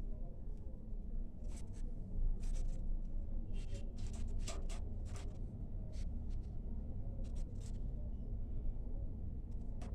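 Irregular short scratching and clicking sounds over a low steady rumble.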